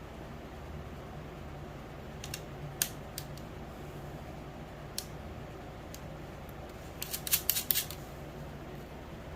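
A few scattered sharp clicks, then a quick run of louder clicks about seven seconds in, from small parts being handled by hand, over a steady low hum.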